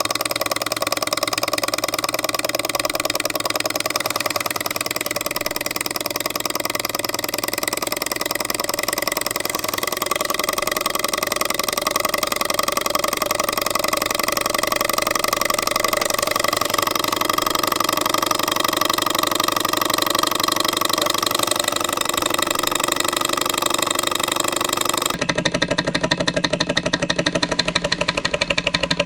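Jabama A500 model hot air Stirling engine running steadily, its mechanism making a fast, even clatter with a ringing whine. Near the end the sound abruptly turns duller and lower.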